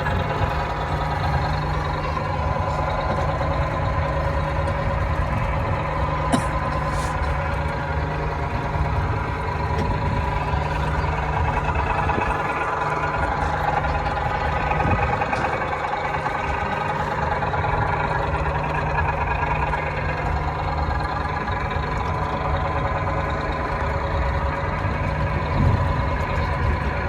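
Small park ride-on train running steadily while under way: a constant low engine drone with a steady higher whine.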